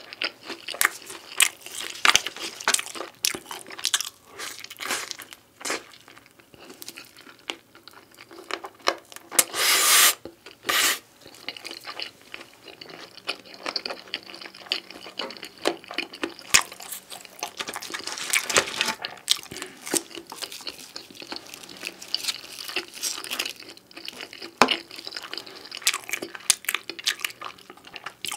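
Close-miked chewing and crunching of beef pizza, with a dense run of crisp crackles and wet mouth clicks. There are two longer, louder crunches about ten seconds in.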